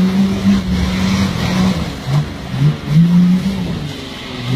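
Nissan Patrol GR Y60's engine under throttle, held steady at first, then revved in several short bursts as the 4x4 works its way forward through mud.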